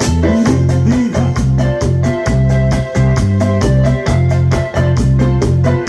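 Instrumental break of a Latin dance band song: an electronic organ keyboard plays the melody over a pulsing bass line and a steady, quick percussion rhythm, with no singing.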